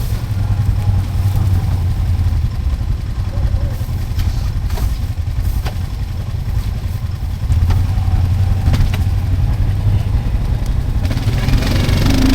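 Four-wheeler (ATV) engine running at low speed and idling while the machine is manoeuvred, a little louder about eight seconds in, with a few light knocks.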